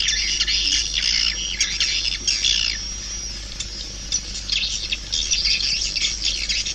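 Swiftlet calls: dense, overlapping high chirps and twitters from a swiftlet lure recording of the kind played to call swiftlets into a nesting house. The chirping thins out about halfway through and picks up again near the end.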